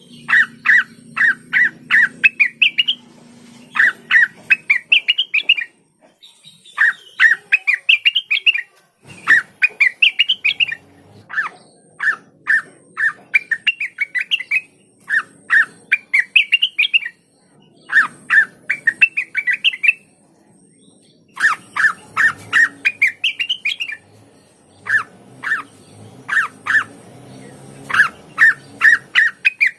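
Blue-winged leafbird (cucak wilis) singing: short, rapid phrases of sharp chirping notes, each phrase rising in pitch, repeated over and over with brief pauses between them.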